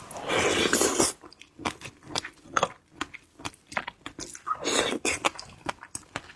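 Close-miked eating sounds: a person biting and chewing food, with many short wet mouth clicks. Two louder bursts, each about half a second to a second long, come just after the start and about five seconds in.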